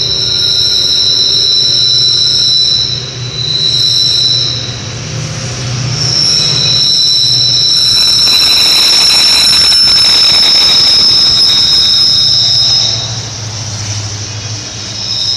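A WDP4 diesel locomotive and its passenger coaches run past along the platform track. The wheels give a steady high-pitched squeal that breaks off briefly a few times, over the low rumble of the locomotive. The sound is loudest in the middle stretch as the train draws level, then eases off as the coaches follow.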